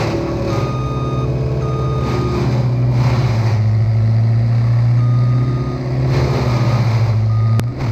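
Truck's reversing alarm beeping in long pulses, a couple at a time with a pause between, over a loud engine running steadily. A sharp click comes near the end.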